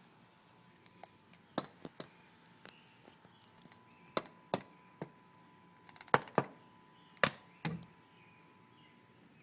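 A dozen or so sharp clicks and knocks at irregular intervals, some light and some louder, with a faint steady high tone underneath.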